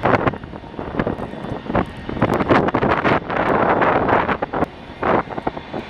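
Strong gusty wind buffeting the microphone in irregular surges, over the noise of a jet airliner at the airport.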